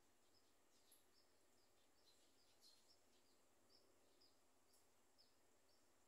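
Faint, short, high chirps from small birds, slightly falling in pitch and coming irregularly about twice a second, over a steady low hiss.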